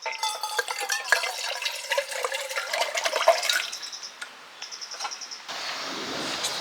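Water poured into a container for about three and a half seconds, splashing and gurgling. Insects chirp faintly after it, and a steady hiss starts near the end.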